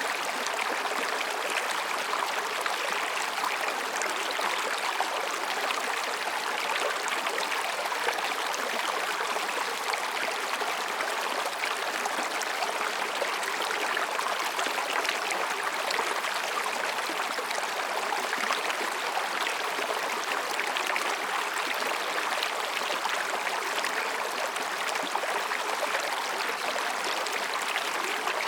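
Mountain stream running between rocks: a steady, even babbling rush of water.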